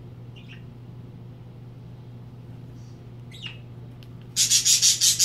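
Pet bird squawking loudly in a rapid series of sharp calls about four seconds in, after a couple of faint chirps, over a steady low hum.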